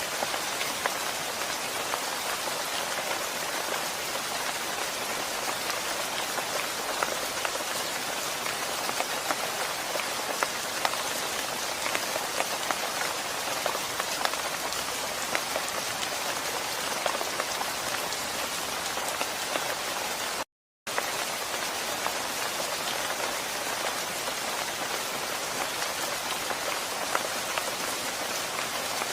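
Steady rain falling, a dense hiss full of fine drop ticks. About two-thirds of the way through it cuts out completely for a split second.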